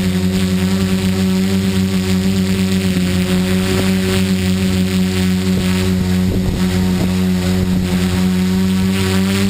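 Multirotor tricopter's electric motors and propellers running in flight: a steady buzzing hum with a hiss over it, wavering in pitch briefly around the middle.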